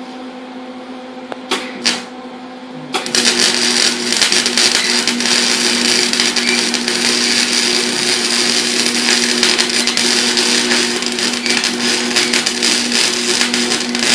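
Electric arc welder filling pinholes in a turbo flange weld: two brief arc strikes about a second and a half in, then a continuous crackling, sputtering arc for about twelve seconds that stops near the end, over a steady hum.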